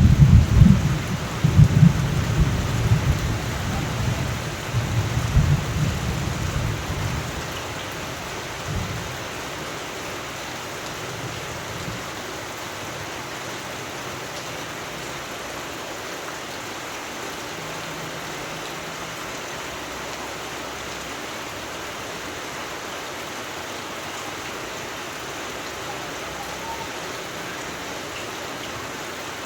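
Steady rain falling, with a long roll of thunder rumbling through the first several seconds and dying away about seven seconds in.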